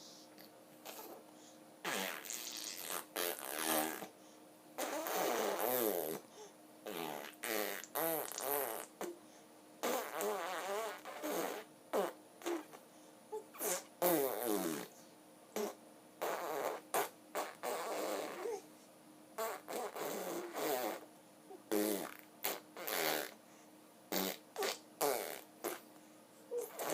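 A voice making a string of short, buzzing, wavering sounds, about two dozen in quick succession, with the pitch bending up and down within each one.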